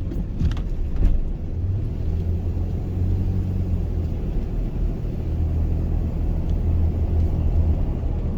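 Car driving, heard from inside the cabin: a steady low rumble of engine and road noise, with a few sharp knocks in the first second as the camera mount settles.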